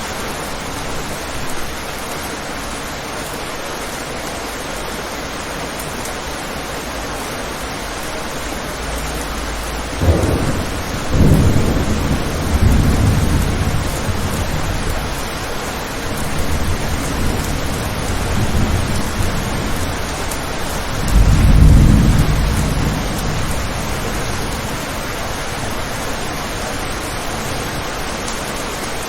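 Steady heavy rain with thunder: about a third of the way in a sudden clap breaks into low rolling rumbles that go on for some ten seconds, swelling to a second, louder rumble about three-quarters of the way through before fading back to the rain.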